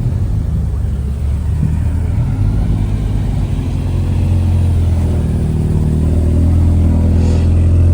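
A car engine running close by: a steady low hum that builds slightly in level over the seconds.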